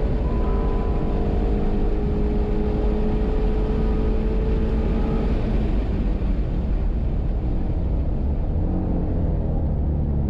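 2018 Shelby GT350's 5.2-litre flat-plane-crank V8 pulling hard at high revs, heard from inside the cabin, its pitch climbing slowly. About halfway through the steady note falls away as the car comes off the throttle, and the engine runs at lower, changing revs near the end as it turns into a corner.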